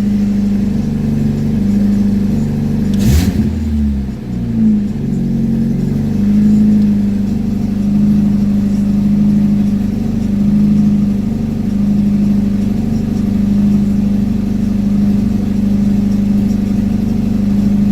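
1998 Neon's 2.0-litre four-cylinder engine running steadily at a fast cold idle of about 1600 rpm just after a cold start. A single knock comes about three seconds in, and the engine note wavers for a couple of seconds after it.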